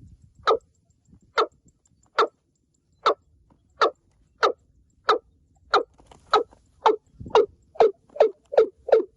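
Watercock giving its deep, hollow 'kok' calls in a series, about fifteen notes that start slowly and speed up steadily to roughly three a second near the end.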